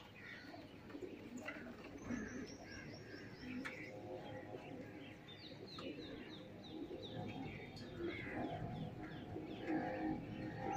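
Faint birdsong: small birds chirping, with several runs of quick, high, falling notes.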